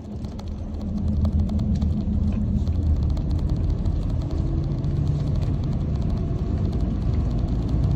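Truck engine and road noise heard from inside the cab while driving, a steady low drone that grows louder over the first second or so; the engine's note shifts about two and a half seconds in and again near the middle.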